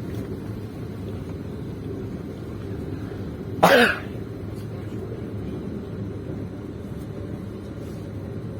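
Steady low rumble of a moving passenger train heard from inside the carriage, with one brief, loud sound about three and a half seconds in.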